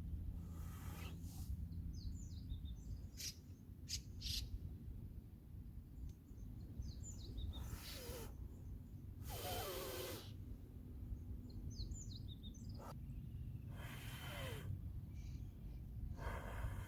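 Small birds chirping in short groups of high calls over a steady low outdoor rumble, with several brief hissing bursts and a few sharp clicks.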